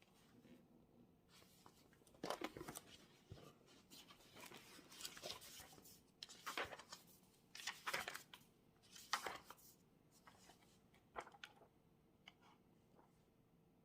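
Paper being handled at a desk: a run of short, crisp rustles, like pages being turned or sheets shifted, followed by a few faint light taps, over a faint steady hum.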